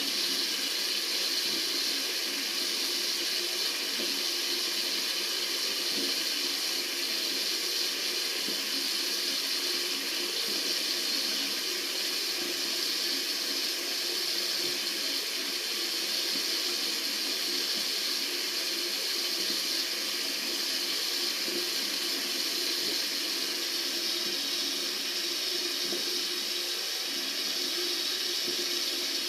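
Water running steadily from a tap, an even, unbroken hiss that sits mostly in the upper range.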